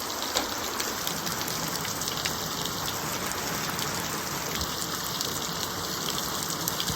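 Heavy rain mixed with hail pouring down steadily: a constant hiss dotted with many sharp ticks of stones and drops striking hard surfaces.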